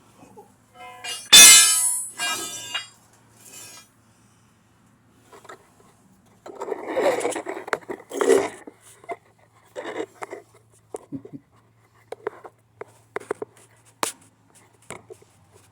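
Shop work noises: a short ringing metallic squeal about a second in, then rough scraping a few seconds later and a run of scattered clicks and knocks from metal parts and tools, over a faint steady hum.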